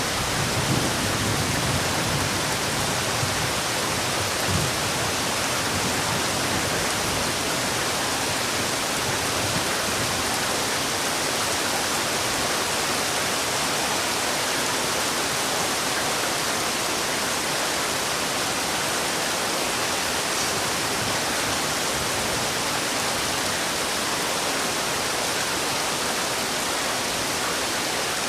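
Heavy rain falling steadily, a dense even hiss, with a few faint low thumps in the first few seconds.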